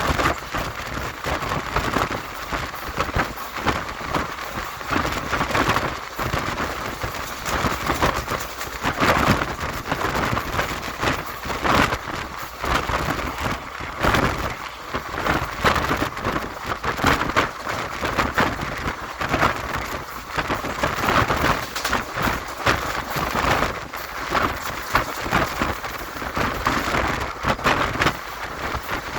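Train passing at speed close by: continuous wheel-and-rail noise with dense, rapid clatter throughout.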